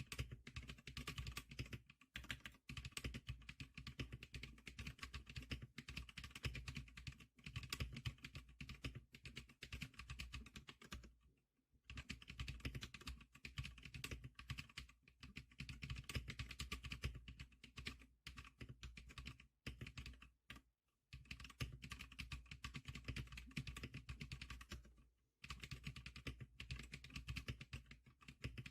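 Fast typing on a Zclicker SPK100 keyboard: a steady stream of keystroke clicks, broken by a few short pauses.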